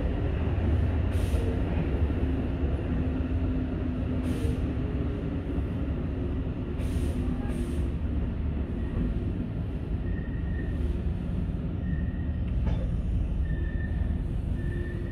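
Tobu 8000 series electric train running steadily, a continuous low rumble of motors and wheels on the rails. From about ten seconds in, short high-pitched wheel squeals come and go every second or two.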